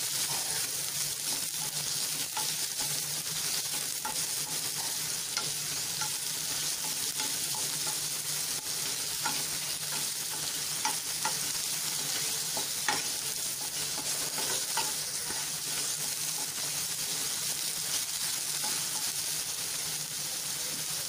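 Diced ridge gourd sizzling as it sautés in hot oil in a nonstick kadhai, stirred with a wooden spatula, with scattered sharp clicks through the steady hiss.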